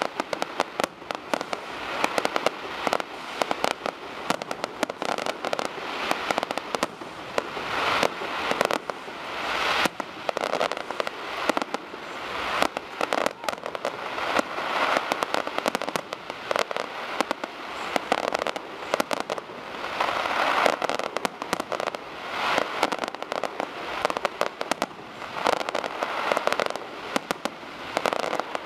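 Fireworks display: a continuous barrage of shell bursts and dense crackling, swelling and easing every second or two.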